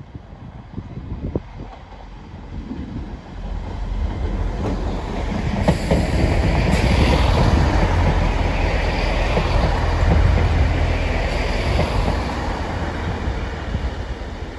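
GWR Class 166 Turbo diesel multiple unit passing close by, its underfloor diesel engines rumbling and its wheels running on the rails. It grows loud about four seconds in, stays loudest through the middle, then fades slightly as it moves away.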